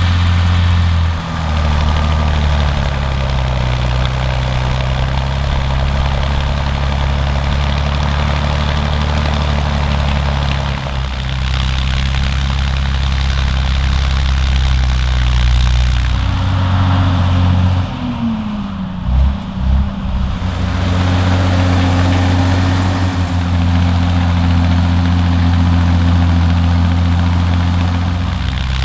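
Large diesel engine of farm machinery running steadily under load. About eighteen seconds in the sound dips and a tone falls in pitch, then steady running resumes.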